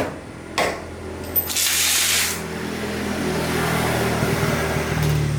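Two sharp knocks, then a hissing spray lasting under a second, over a steady low mechanical hum.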